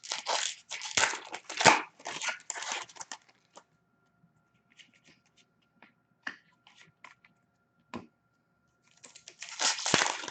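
Foil trading-card pack wrappers being torn open and crinkled, in bursts for the first three seconds and again near the end, with small clicks of handling in between.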